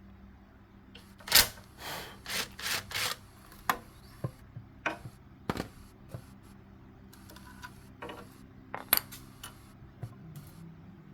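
Hand tools knocking and clinking on metal engine parts: one sharp knock about a second in, a quick run of four or five strikes, then scattered single clicks.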